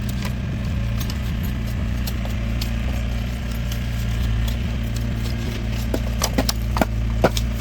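A steady low mechanical hum, like a small engine or motor running, with a run of sharp knocks or taps about six seconds in.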